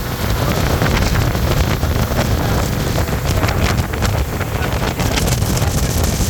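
Speedboat running at speed, its engine rumble mixed with loud, steady wind buffeting the microphone and rushing water.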